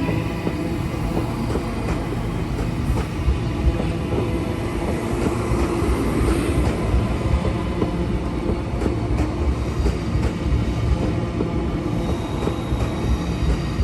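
Queensland Rail electric suburban train running through a station, a steady running noise with a few steady tones and scattered clicks from the wheels.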